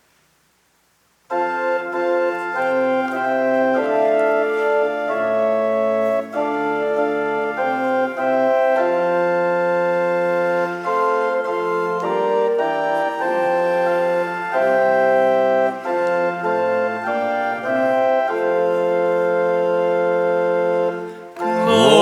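Organ playing the introduction to a hymn in sustained, stepwise-changing chords, starting about a second in after a brief silence.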